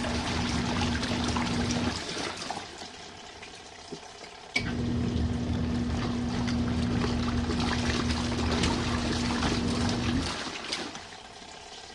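Compact RV washing machine in its main wash: the wash motor hums and churns the hot water for about two seconds, pauses, then runs again for about five seconds and stops, the start-stop pattern of the wash cycle.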